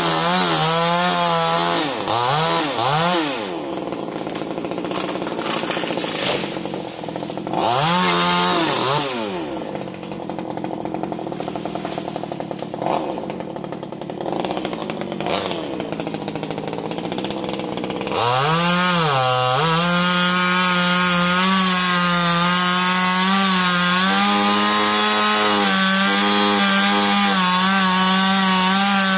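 Small top-handle two-stroke chainsaw blipped up to speed twice and dropping back to idle between, then held at full throttle from about two-thirds of the way in, its pitch dipping slightly as the chain bites into wood.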